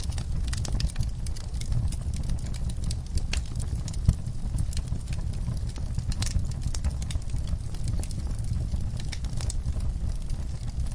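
Wood fire burning in a fireplace: a steady low rumble with irregular crackles and pops, the sharpest pop about four seconds in.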